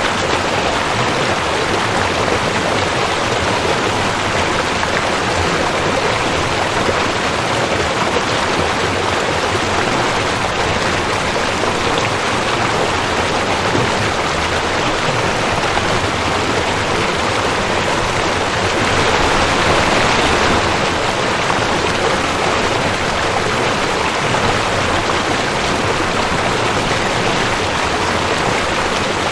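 Rushing creek: a steady, dense wash of water running over rocks, swelling slightly about two-thirds of the way through.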